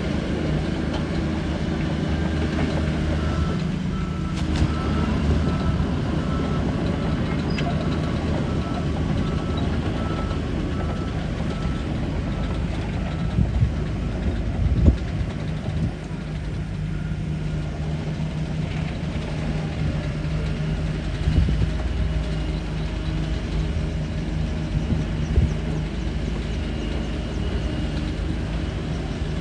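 Shantui DH17 bulldozer's diesel engine running steadily under work. From about three seconds in to about twelve seconds a reversing alarm beeps in an even series, and a few knocks come later on.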